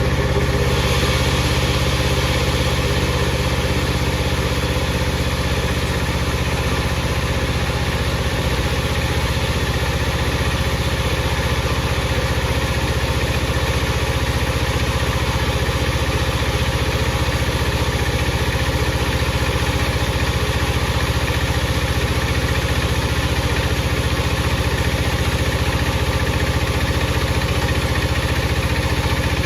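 Power saw running steadily with a constant machine hum.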